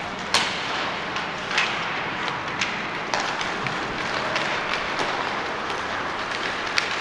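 Ice hockey game in a rink: a steady wash of arena noise broken by sharp clacks of sticks and puck, the loudest about a third of a second in.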